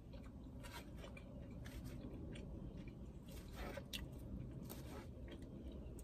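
A person chewing mouthfuls of chicken and rice, heard faintly as scattered small mouth clicks at irregular moments over a low steady background hum.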